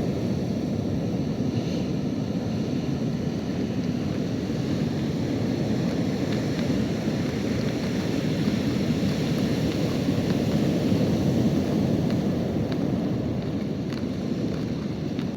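Ocean surf breaking on a beach, with wind buffeting the microphone: a steady low rush of noise.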